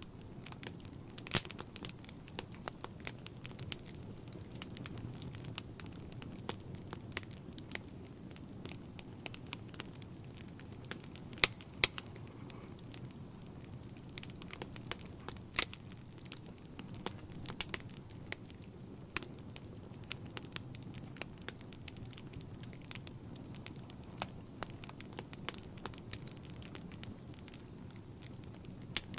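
Wood fire burning in a fireplace: irregular sharp crackles and pops over a low, steady rumble of flames, with a few louder pops.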